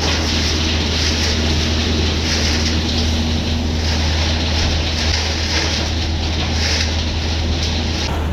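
An engine running steadily with a constant low drone, under a loud rushing hiss of wind on the microphone.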